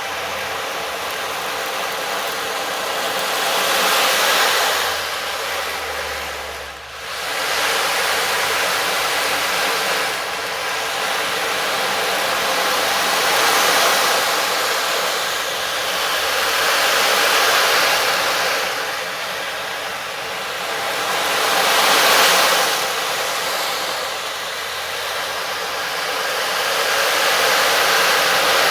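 A steady rushing hiss that swells and fades in slow waves every four to five seconds, with a brief dip about seven seconds in.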